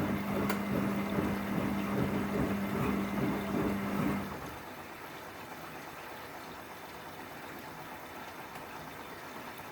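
1994 Ocean 900 front-loading washing machine running a rinse: a steady mains hum with water sloshing in the drum, which cuts off about four seconds in, leaving a quieter wash of water noise.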